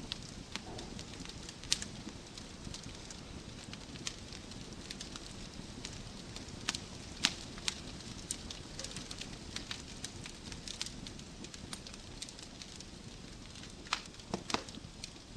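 Wood logs burning in a fireplace: irregular sharp crackles and pops over a steady low rush of flame, with a quick cluster of pops near the end.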